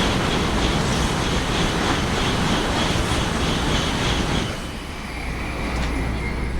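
Shinkansen bullet train running past at speed, a steady rush of wheel and air noise that drops off about four and a half seconds in.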